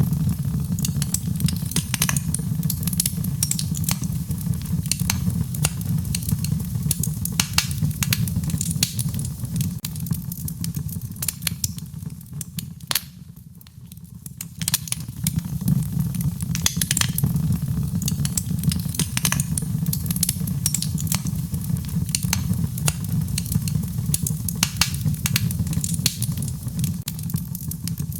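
Wood fire crackling, with frequent sharp pops and snaps over a steady low rumble; it briefly dies down about halfway through.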